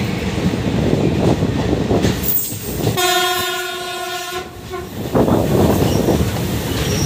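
Rumble and clatter of train wheels on the rails alongside a long Indian Railways freight train of open wagons. A single steady train horn blast of about a second and a half sounds near the middle.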